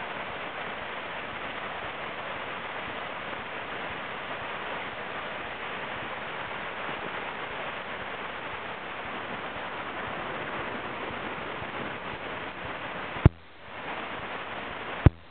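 Steady rush of floodwater from a swollen stream. Near the end, two sharp clicks, each followed by a brief drop in the sound.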